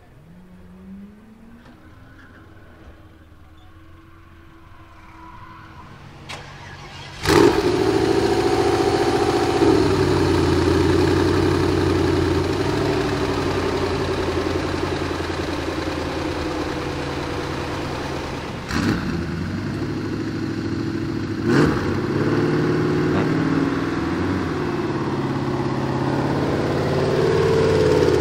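Twin-turbocharged 5.0-litre M119 V8 of a Mercedes W124 drift car firing up with a sudden loud start about a quarter of the way in, then idling steadily. Two sharp cracks come in the middle, and the engine revs up near the end as the car pulls away.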